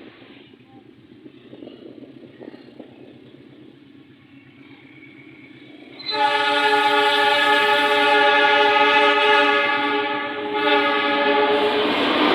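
Passenger train locomotive horn sounding one long steady blast of about four seconds, starting abruptly about six seconds in. It is followed by the loud, steady noise of the train running past; before the horn there is only faint background.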